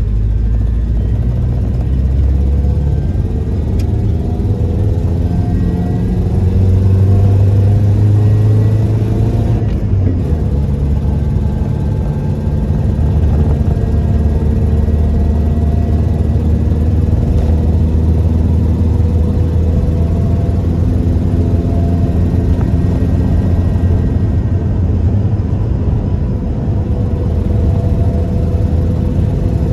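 1998 Toyota Tacoma pickup driving, its engine and road noise running continuously. The engine pitch climbs over the first several seconds as it accelerates, breaks off about ten seconds in, then holds fairly steady.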